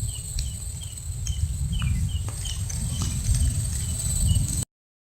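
Outdoor insect chorus: a steady high-pitched drone of crickets or cicadas, with short chirps repeating about twice a second, over a low rumble that grows louder. All sound cuts off abruptly near the end.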